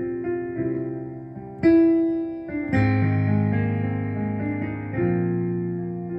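Keyboard played slowly and softly, sustained chords struck one after another and left to ring and fade.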